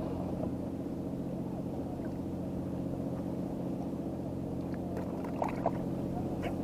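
Steady drone of a boat engine running at an even speed, with a few faint clicks near the end.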